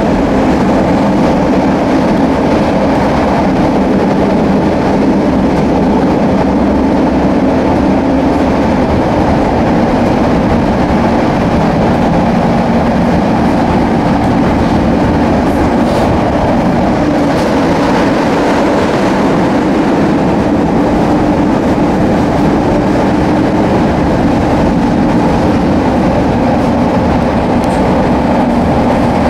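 Inside a Chicago 'L' rapid-transit car running at speed: steady, loud noise of the wheels on the rails and the car's running gear.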